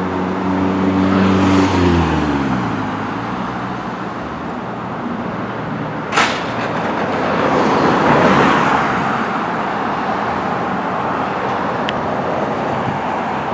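A heavy vehicle's engine drones past and its pitch drops as it goes by, about two seconds in, followed by steady traffic noise with another vehicle passing later. A single sharp click comes about six seconds in.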